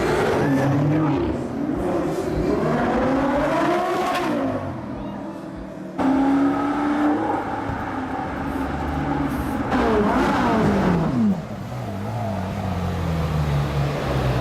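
Supercar engines revving and accelerating, their pitch climbing and falling several times. A louder engine sound starts suddenly about six seconds in, and another climbs near ten seconds before dropping away sharply, like a car passing by.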